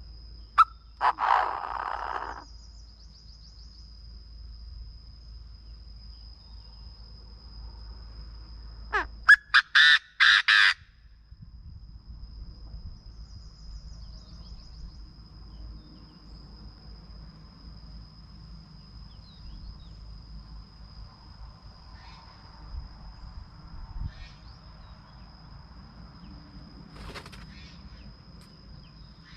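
Chinese francolin calling. A harsh call comes about a second in, then a loud run of about six rapid, sharp notes around nine to ten seconds in, with a few faint notes later. A thin, steady high whine sits underneath.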